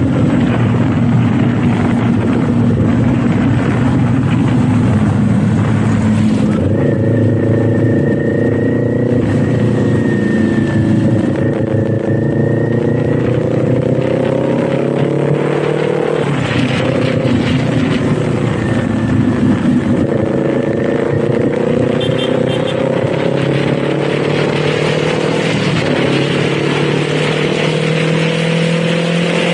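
Kawasaki Z400 parallel-twin engine and exhaust under way, the pitch climbing in long rises and dropping back sharply twice at gear changes.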